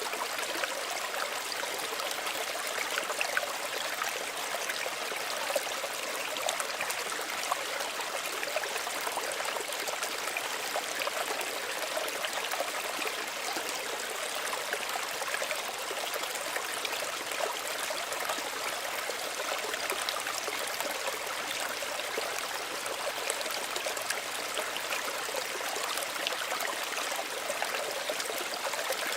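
Small stream running and trickling steadily, with many small splashes and babbles.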